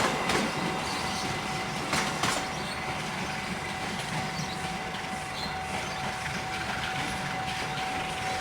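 Passenger train running on the rails: a steady rumble and hiss of wheels, with a few sharp clacks over rail joints in the first couple of seconds and a thin steady whine throughout.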